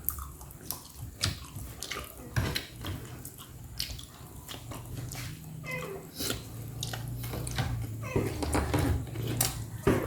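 A person eating roast chicken close to the microphone: wet chewing and many short sharp mouth clicks. A low steady hum comes in about halfway through.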